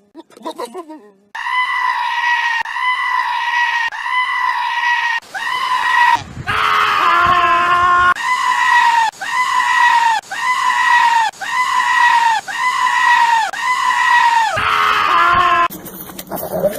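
A goat bleating in a long run of short, high-pitched, scream-like calls, about one and a half a second, each dropping in pitch at its end, broken once by a longer call. A different animal call takes over near the end.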